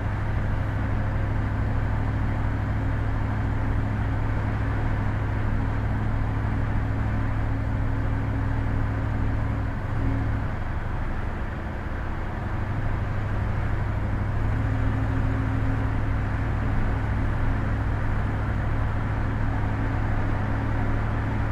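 Exhaust drone and road noise inside the cabin of a 1962 Chevrolet Biscayne with a 350 V8 and Thrush mufflers, cruising steadily at about 35 mph: a steady low hum that eases for a couple of seconds about halfway through, then comes back. At this speed the drone used to be bad in the back seat; the owner finds it a little better now.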